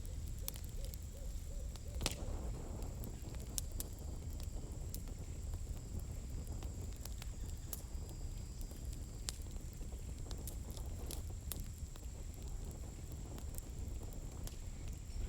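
Wood campfire crackling: scattered sharp pops and snaps over a steady low rumble of burning logs, with one louder pop about two seconds in.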